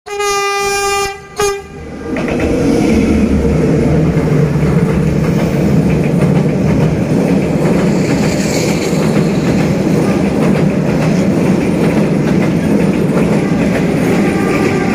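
D20E diesel locomotive's horn sounding one long blast of about a second and a short second blast. Then the passenger train runs close past: a loud, steady rumble of engine and wheels with a clatter of wheels on the rails.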